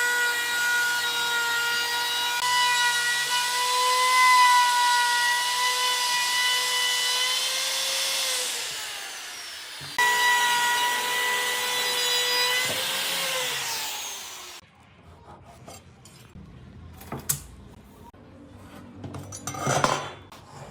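High-speed electric power tool working wood, its motor giving a steady high whine that winds down about eight seconds in, comes back suddenly at full speed, then winds down and stops about two thirds of the way through. Light knocks and scraping of wood being handled follow.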